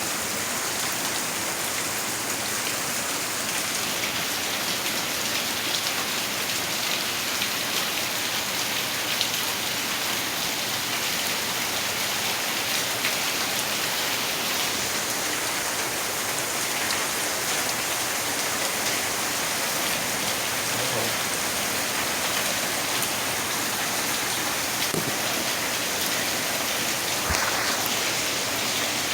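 Steady rain falling and pattering on surfaces, a continuous hiss dotted with the ticks of individual drops.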